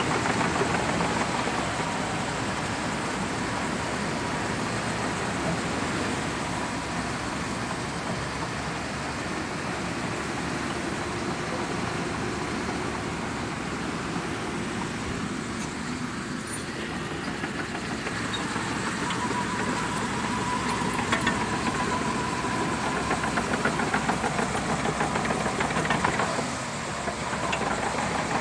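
Shantui DH17C2 bulldozer's diesel engine running steadily under work. In the second half a steady high whine and a rapid clatter join the engine noise.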